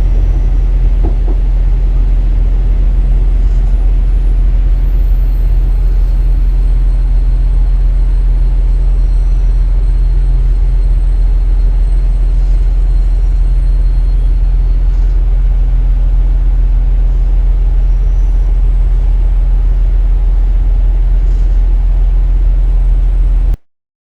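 KiHa 47 diesel railcar heard from inside the passenger car, its diesel engine giving a steady low drone. The sound cuts off suddenly near the end.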